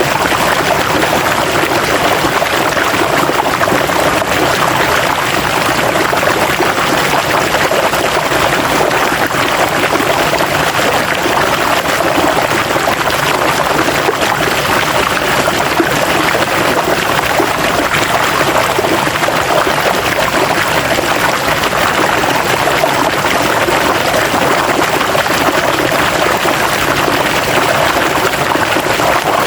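River water flowing and splashing over rocks, a steady rushing with no change in level.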